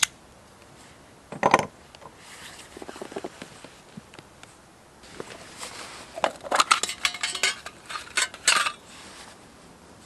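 Metal camp cookware and utensils being handled: a clatter, some scraping, then a run of clinks and knocks of metal on metal.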